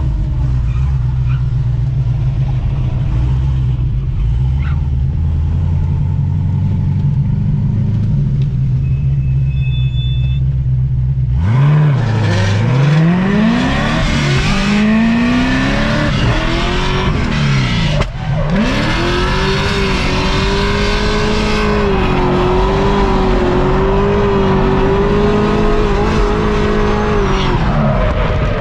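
Supercharged LS7 V8 of a C6 Corvette Z06 idling steadily, then from about 11 seconds in revving up hard with rising and falling sweeps. It dips sharply for a moment at about 18 seconds, then is held at high revs with a wavering note through a drift, and drops off near the end.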